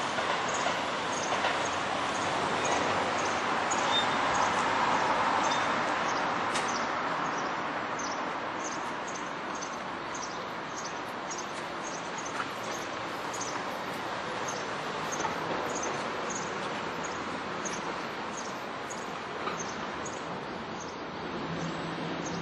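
An electric train running away into the distance, its rumble fading over the first several seconds. A short, high chirp repeats steadily about twice a second throughout.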